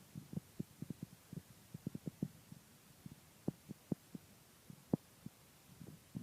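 Wind buffeting the camera's microphone: a run of irregular low thumps and pops, bunched together in the first half and spaced out later, over faint background hiss.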